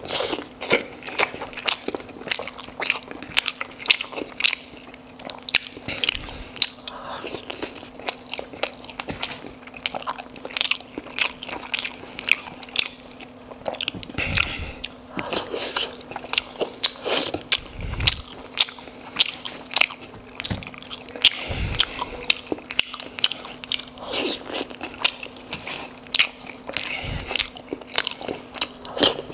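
Close-miked biting and chewing of steamed momos (dumplings) dipped in sauce: a dense run of short, sharp mouth clicks, with a few low thumps scattered through. A faint steady low hum sits underneath.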